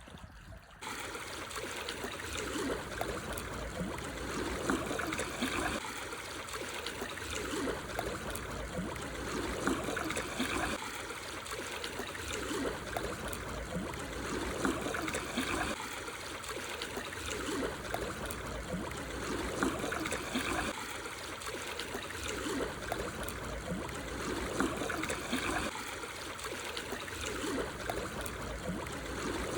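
Gentle sea waves lapping and washing over black stones on the shore, swelling again about every five seconds. The sound steps up in level about a second in.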